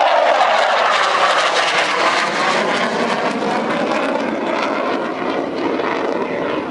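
F-16 fighter jet engine noise during a pass, a loud, steady rushing sound. Its strongest pitch slides down around the start as the jet goes by, then it eases off slightly.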